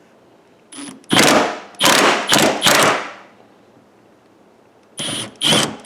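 Cordless impact wrench hammering on a seat-mounting nut, in a run of short bursts about a second in and two more near the end, with a thin high motor whine at the start of each burst.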